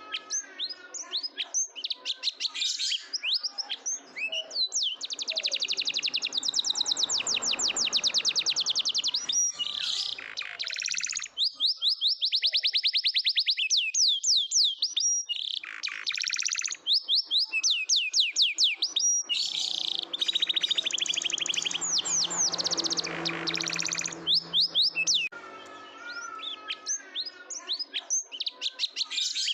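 Domestic canary singing: a continuous high-pitched song of quick sweeping chirps alternating with long, very rapid trills and rolls.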